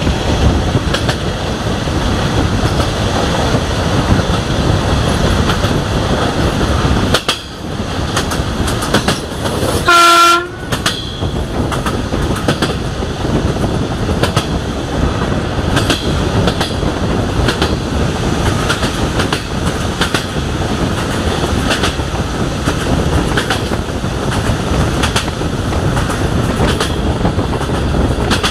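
Remarul DH2 diesel-hydraulic railcar running at speed, its wheels clattering rhythmically over the rail joints. About ten seconds in, the train horn sounds once, a short blast lasting under a second.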